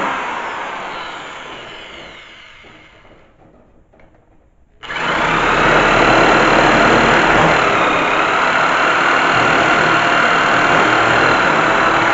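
Handheld electric power tool cleaning rust off the car's sheet metal. It winds down with falling pitch over the first few seconds, falls nearly quiet, then starts up sharply about five seconds in and runs steadily.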